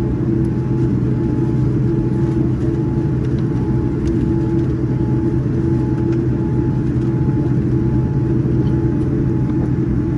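Steady rumble and hum of a Boeing 787-9 with GEnx engines, heard from inside the cabin, with a faint higher tone pulsing on and off about twice a second.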